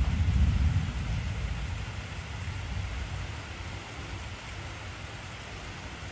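Heavy rain: a steady, even hiss of dense rainfall. Under it a deep low rumble is loudest in the first second and fades over the next few seconds.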